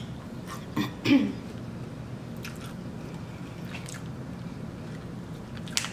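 Someone eating seafood close to the microphone: chewing and wet mouth sounds, with a cluster of sharp clicks and a short louder smack about a second in, then a few faint clicks.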